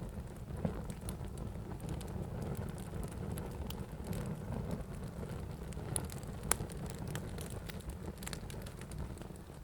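Wood fire burning in a fireplace: a steady low rumble of flames with scattered crackles and pops, two sharper pops a little past the middle.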